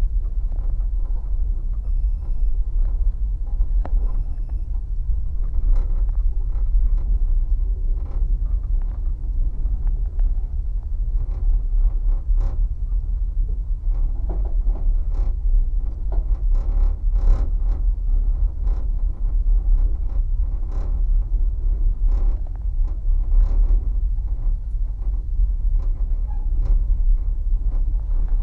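Passenger train running, heard from inside the carriage: a steady low rumble with irregular clicks and knocks of the wheels over rail joints and points.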